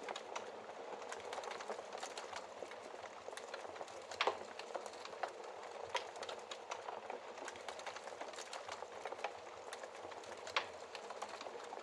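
Wood fire crackling in a fireplace: a steady hiss dotted with many small sharp crackles, with a louder pop about four seconds in and another near the end.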